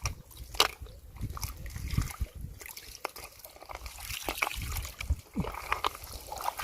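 Shallow floodwater in a rice field splashing and trickling as it is disturbed, with scattered small clicks and knocks at irregular intervals.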